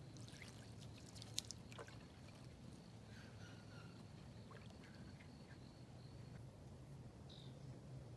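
Quiet woodland ambience with a low steady hum, a few faint clicks or snaps about a second and a half in, and faint short bird chirps.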